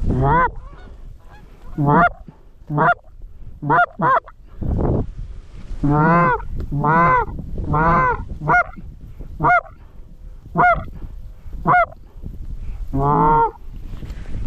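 Geese honking: about a dozen calls, some short sharp honks and some longer wavering ones, bunched most thickly in the middle of the stretch, over a low wind rumble.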